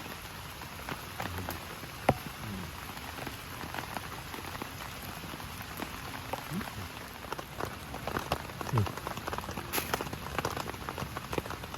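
Heavy rain falling steadily, with many scattered drops ticking on a surface close by and one sharper knock about two seconds in.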